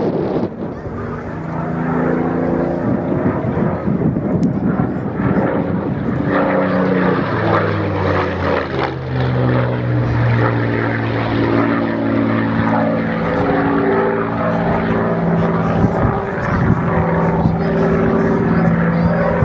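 Propeller-driven Spitfire flying a solo aerobatic display. Its piston engine note shifts up and down in pitch as it passes and manoeuvres, with a falling pitch about eight seconds in.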